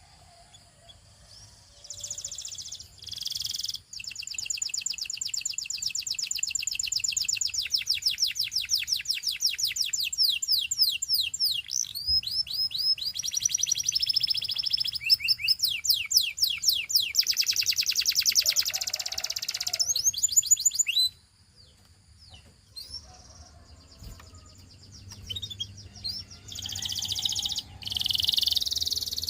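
Domestic canary singing: long rolling tours of rapid repeated high notes, the tempo and pitch shifting from one tour to the next. The song breaks off about two-thirds of the way through, leaving only scattered soft notes, then starts loudly again near the end.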